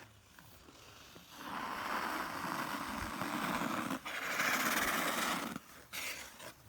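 Ice skate blades scraping and gliding over a frozen pond's ice: two long rasping strokes, the second ending sharply a little past halfway.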